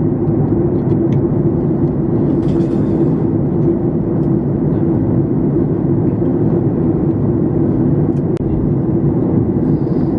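Steady cabin drone of a Boeing 737 MAX 8 airliner on approach to land: CFM LEAP-1B engine and airflow noise as a constant low hum, with a few faint ticks and a brief hiss about two and a half seconds in.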